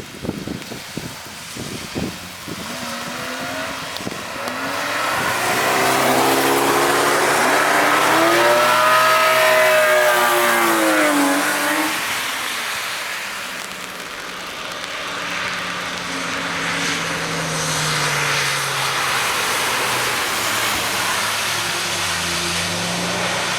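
Cars passing on a wet race circuit. The first comes by about ten seconds in, its engine note rising as it approaches and falling away as it passes, under a loud hiss of tyres on wet tarmac. A second car's engine follows through the last several seconds. Wind buffets the microphone at the start.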